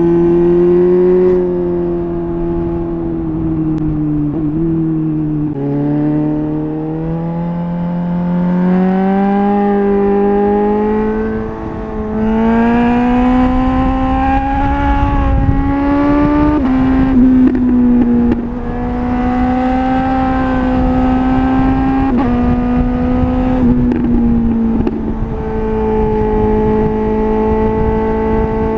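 Suzuki GSR 750's inline-four engine through a MIVV Double Gun exhaust, riding under load: the note climbs and then drops suddenly several times as gears are shifted up, between stretches of steady running.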